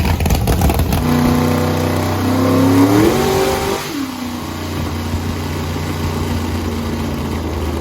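10.3-liter engine revving up in a short pull, its pitch climbing to a peak about three seconds in and then falling back to a steady idle. The engine is running lean, starved of fuel by a pump that cannot keep up, which the crew reads as about 16 to 1 air-fuel.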